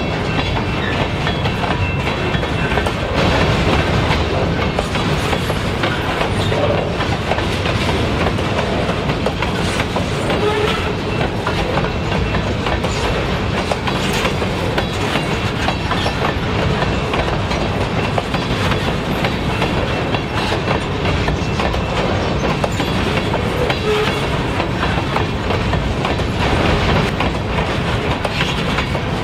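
Covered hopper cars of a unit grain train rolling past over jointed rail: a steady rumble of wheels on steel with the clickety-clack of the wheels striking the rail joints.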